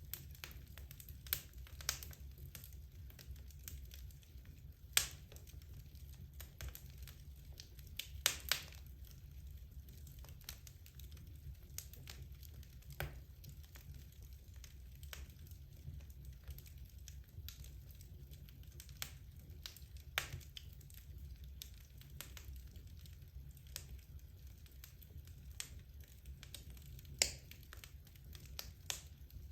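Wood logs burning in a fireplace, crackling with sharp irregular pops, the loudest about five seconds in, a quick cluster of them near eight seconds, and another near the end, over a low steady hum.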